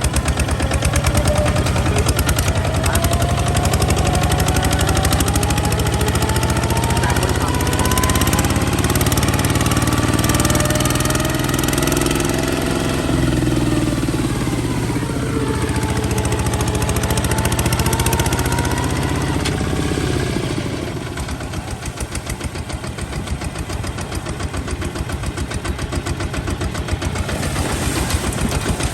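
Kubota ZT155 single-cylinder diesel engine of a two-wheel tractor running, with a fast, even knocking beat. Its pitch climbs slowly through the first dozen seconds, then falls about twenty seconds in, and the engine runs slower and a little quieter after that.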